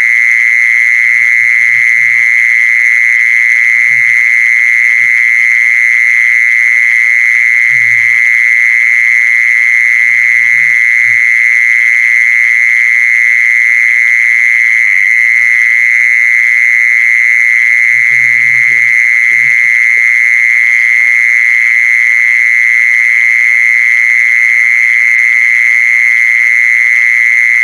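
Continuous high-pitched trilling call, loud and unbroken, played as a lure to call in a female animal; a few faint low knocks sound under it.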